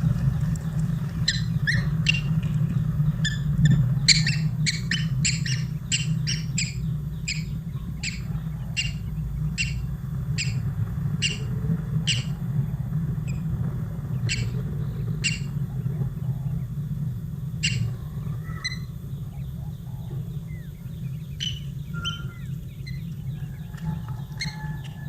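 A bird chirping in short, sharp, high notes, about two a second, thinning out after the first two-thirds, over a steady low hum.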